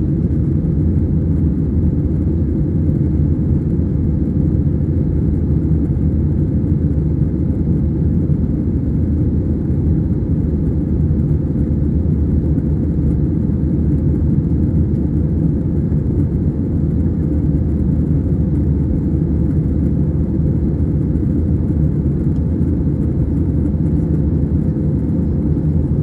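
Steady cabin noise inside an Airbus A320-214 in flight: an even, low rumble of the CFM56 engines and airflow heard from a window seat.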